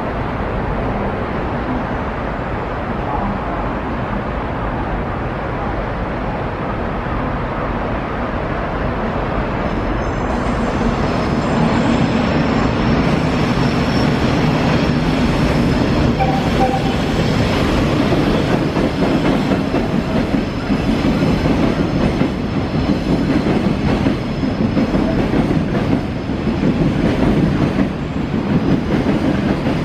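Freight train passing, its wagon wheels clattering over rail joints. A steady rumble grows louder about ten seconds in, then runs on with regular clacks and a thin, faint squeal at times.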